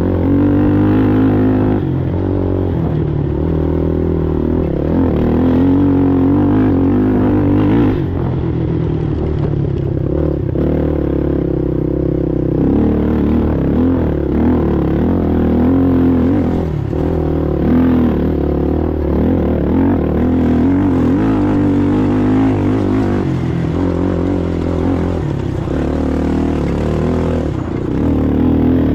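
Racing ATV engine running hard, its revs rising and falling continuously through shifts and throttle changes, with some rattling.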